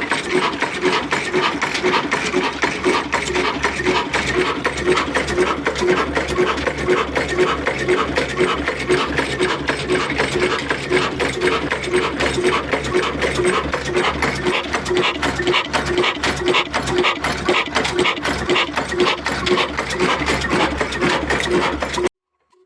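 A 22 HP 'kala desi' Ruston-type single-cylinder diesel engine running with a steady, even rhythmic beat. It cuts off suddenly near the end.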